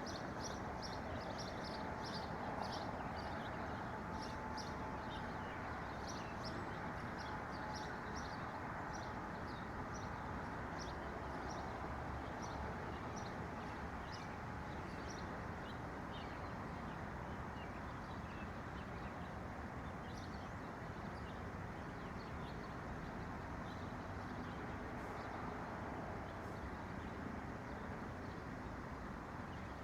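Small songbirds chirping: quick, short, high chirps repeated many times, thick in the first half and thinning out later. They sit over a steady, rushing background noise.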